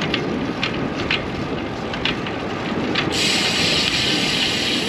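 Wind rumbling on the microphone of a moving bicycle, with a few light ticks, then a steady hiss that comes in suddenly about three seconds in.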